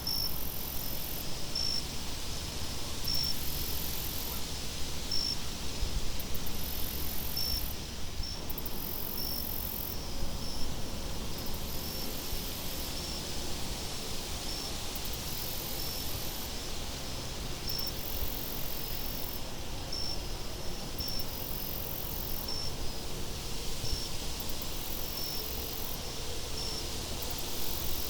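Crickets chirping steadily, about one chirp every second and a half, with a second, higher-pitched insect buzzing in repeated bouts about a second long. Under them runs a steady hiss of wind with a low rumble.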